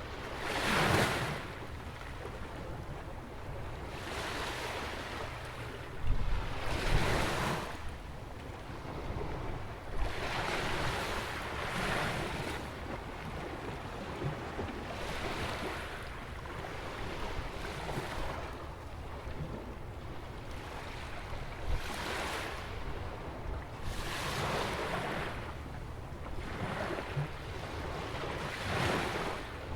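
Atlantic waves breaking and washing in at a jetty on a sandy beach, a rush every few seconds over a steady surf hiss, with wind rumbling on the microphone.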